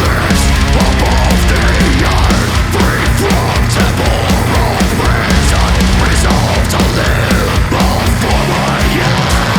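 Melodic death metal played loud and dense: distorted guitars and heavy drums with constant cymbals, and a melodic line that bends up and down above them.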